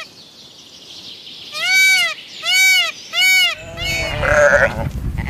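Sheep bleating: three short, high bleats about two-thirds of a second apart, each rising and falling in pitch, then a longer, louder and rougher bleat over background noise from about three and a half seconds in.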